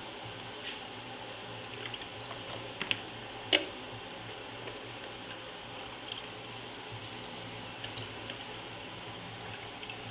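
Hands washing wild greens in water: wet squishing and dripping with scattered small clicks, and a sharper knock about three and a half seconds in.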